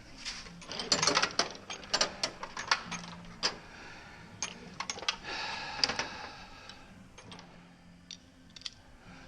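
Socket wrench and extension clicking and clinking against metal as bolts are worked. The clicks are sharp and irregular, thickest in the first few seconds and thinning toward the end, over a faint steady hum.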